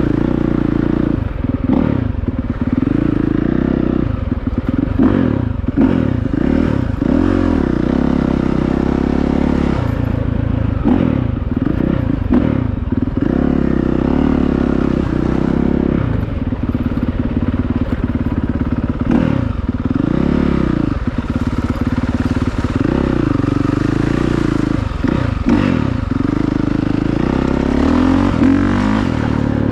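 Honda CRF450R single-cylinder four-stroke dirt bike engine being ridden hard, its revs rising and falling again and again as the throttle is opened and closed, with clattering from the bike over the rough ground.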